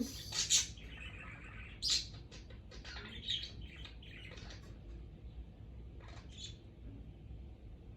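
Pet budgerigars chirping: a scatter of short, high chirps, busiest in the first half, with a last one about six seconds in.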